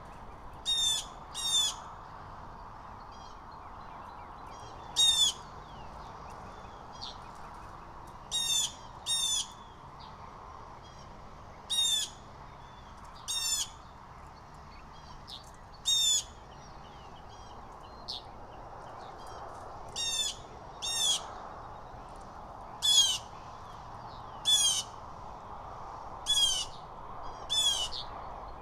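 Blue jays giving harsh jeering calls, about fourteen short calls often in pairs, repeated every second or two over a steady background hiss.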